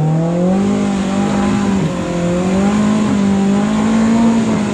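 Side-by-side UTV engine revved hard and held at high revs while the driver powers over a rock obstacle, wavering a little under load. The revs drop as the throttle is let off right at the end.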